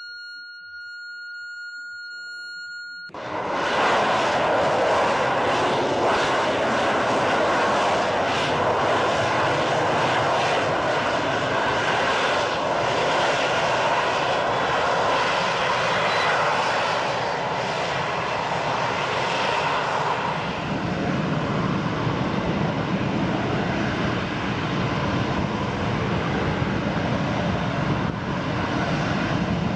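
A steady electronic tone for the first three seconds, then loud aircraft engine noise starts abruptly and runs on steadily, shifting lower in pitch about twenty seconds in.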